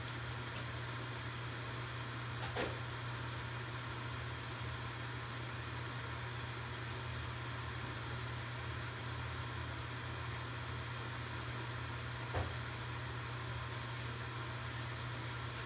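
Campfire burning: a steady hiss over a low hum, with a few sharp crackling pops, the clearest about two and a half seconds in and again about twelve seconds in.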